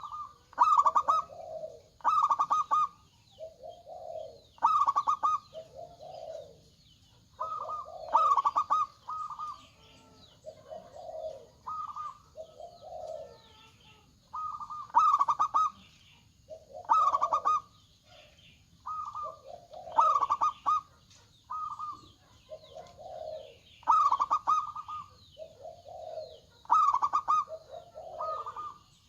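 Zebra doves (perkutut) cooing over and over, with a rapid rattling trill in each coo. Lower and higher calls follow one another every second or two.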